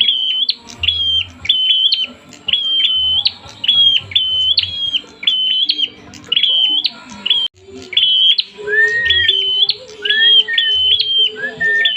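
Prenjak (prinia) calling agitatedly: a rapid run of short, high, flat chirps in twos and threes, repeated over and over. Near the end a lower, upslurred whistled note joins in several times.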